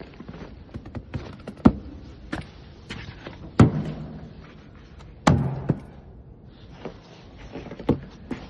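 Irregular knocks and taps, with two heavy thuds about three and a half and five seconds in, each followed by a brief low hum.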